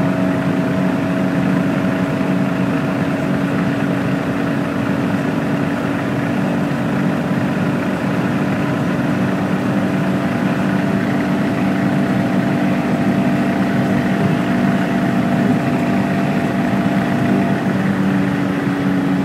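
BMW E30 318i's M10 1.8-litre four-cylinder engine running steadily at high revs, about 5,700 rpm in fifth gear at close to its top speed, heard from inside the cabin.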